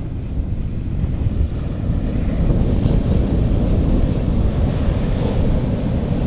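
Sea waves washing onto a beach, with wind buffeting the microphone as a low rumble. The surf grows louder about two seconds in, with small swells of wash twice after that.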